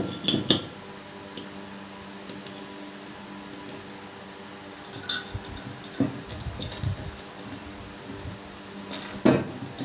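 Metal clinks and scraping as a bearing puller is fitted and worked to draw the ball bearing off a ceiling fan's shaft, with a few sharp clinks spread through, over a faint steady hum.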